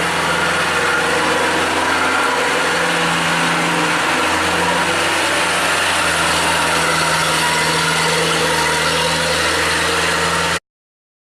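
Truck engine running steadily at an even low speed, with no revving, then cutting off suddenly near the end.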